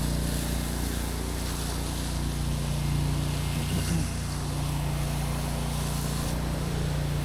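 Pressure washer engine running at a steady pitch under the hiss of a water spray rinsing down grass.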